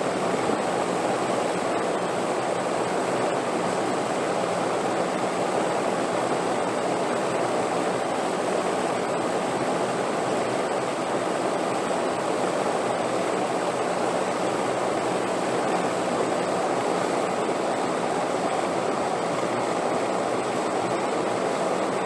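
Steady wind sound: an even rushing noise without gusts or breaks.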